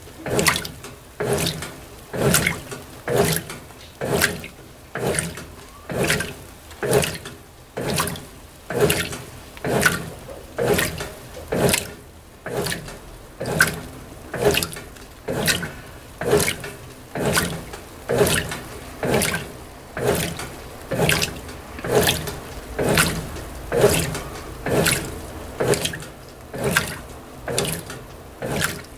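Brastemp BWT12 top-loading washing machine agitating a load of delicates in shallow water, about one sloshing stroke a second.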